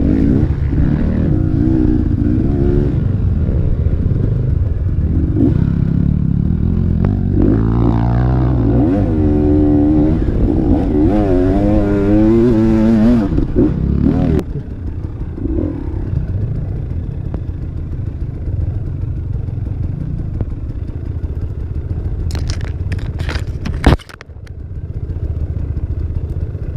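Enduro motorcycle engine revving hard, its pitch climbing and falling repeatedly, then dropping suddenly about halfway through to a quieter, steadier running. Near the end a burst of clatter and one sharp knock, after which the engine sound briefly falls away.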